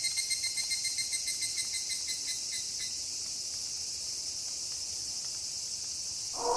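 Crickets chirping in a rapid, even pulse over a steady high hiss of night insects; the chirping fades out about halfway through. A wolf howl starts right at the end.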